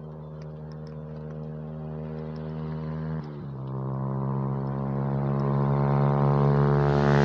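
A vehicle engine drawing steadily nearer and louder. Its note drops suddenly about three seconds in, then slowly climbs again.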